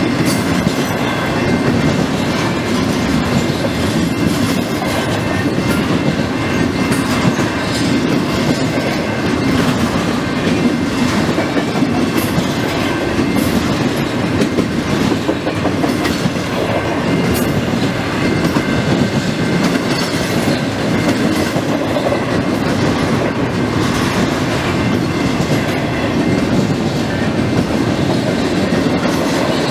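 Double-stack intermodal freight train of container well cars passing close by at steady speed: a continuous loud rumble of wheels and cars, with wheels clicking over the rail joints.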